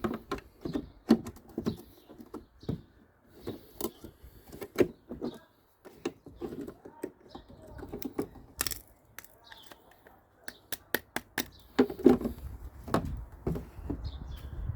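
Irregular clicks and taps of hard plastic parts being handled and pushed into place as a bulb holder is refitted into a car's rear light cluster, with a quick run of clicks about ten to eleven seconds in.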